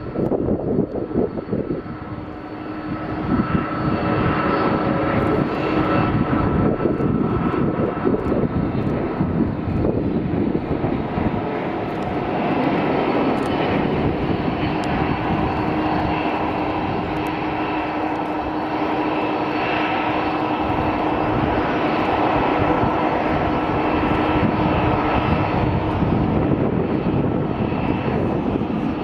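A Boeing 777-300ER airliner's GE90 jet engines during landing: a continuous rush of engine noise with steady whining tones, growing louder about three seconds in.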